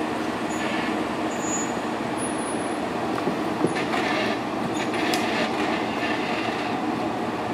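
Jeep engine running as it crawls through a rocky creek crossing, with a couple of sharp knocks a few seconds in.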